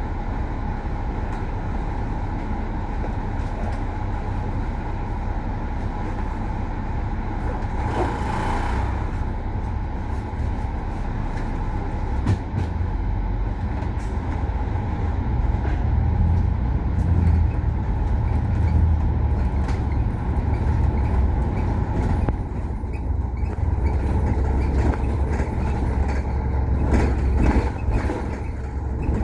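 KMB bus running on the road, its engine and drivetrain giving a steady low rumble with a constant whine, and a short hiss of air, such as from the air brakes, about eight seconds in. Some rattles and knocks come near the end.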